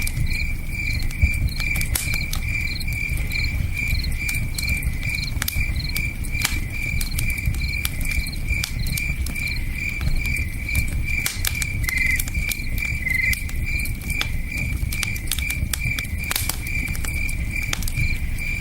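Crickets chirping in a steady, fast pulsed rhythm, with a second, lower chirp twice about two-thirds of the way through. Campfire crackles and pops throughout, over the low rushing of a river.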